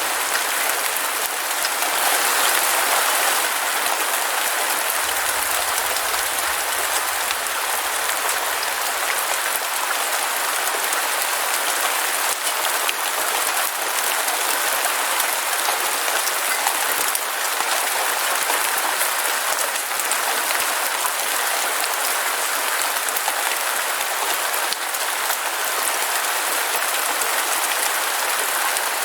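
Heavy rain falling steadily: a dense, even hiss of drops with fine pattering, holding at one level throughout.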